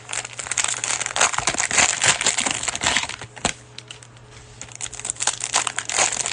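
Cellophane wrapper of a basketball card cello pack crinkling as the pack is handled and opened: a dense run of irregular crackles, easing briefly about four seconds in.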